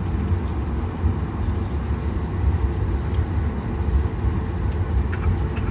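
Cabin noise inside a Boeing 737 on the ground just after landing: a steady low rumble from the running jet engines and air system, with a few faint rattles about five seconds in.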